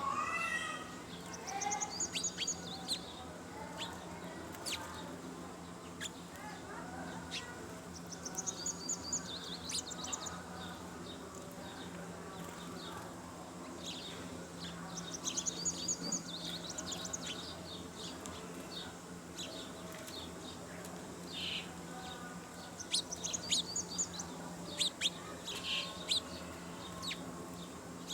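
Birds chirping in several bursts of rapid, high twittering, over a steady low hum.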